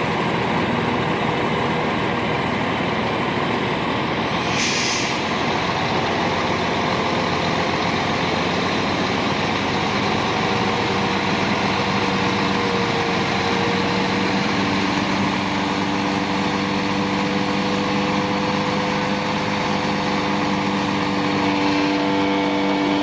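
Heavy earthmoving machine's diesel engine running steadily under work. There is a short hiss about four and a half seconds in, and the engine note shifts near the end.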